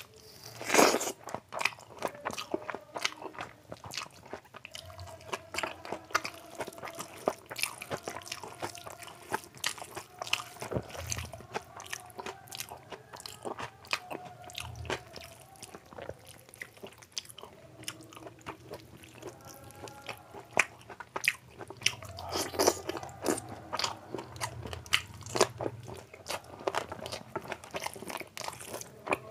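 Close-miked chewing and crunching as a man eats soaked rice (panta bhat) with fried sides by hand, with many sharp mouth clicks and smacks several times a second. The loudest crunch comes about a second in.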